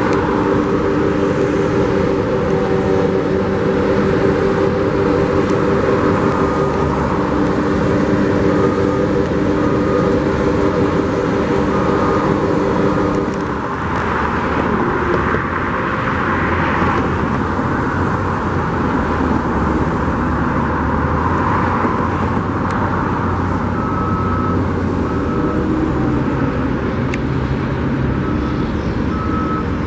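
Heavy earth-moving trucks and machinery running, with a reversing alarm beeping in short evenly spaced beeps that come and go.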